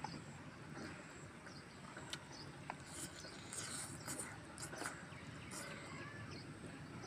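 Faint close-up eating sounds: wet chewing and lip smacks, with fingers picking through saucy chicken curry, in a scatter of short clicks and smacks. A thin steady high hum runs underneath.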